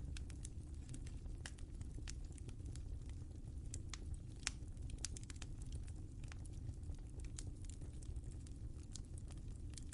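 Wood fire crackling in a fireplace: a steady low rumble of the flames with irregular sharp pops and snaps, several a second.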